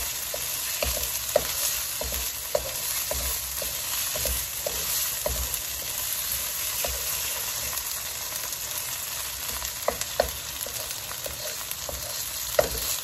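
An onion, spice and green-chilli masala frying with a steady sizzle in a non-stick wok while a wooden spatula stirs and scrapes it. The spatula taps against the pan every so often, with a few sharper knocks in the last few seconds.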